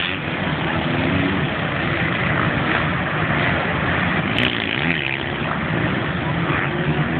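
Motocross bikes racing, engines revving up and down as they ride the track, with a short sharp click about four and a half seconds in.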